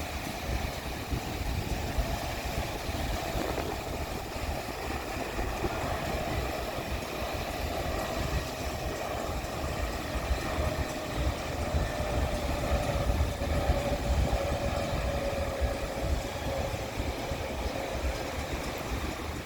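Lufthansa Airbus A321neo's twin jet engines passing close by, a steady rumble with a whine that slowly falls in pitch through the middle.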